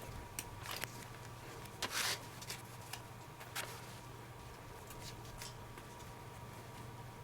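Hands working a leather baseball glove and its leather lacing: scattered light clicks and rustles, with a longer scrape of leather about two seconds in.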